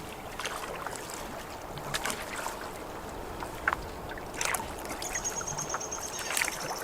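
Canoe paddling on a slow river: paddle strokes dipping and splashing in the water, with a few light knocks. A thin, steady high tone joins about five seconds in.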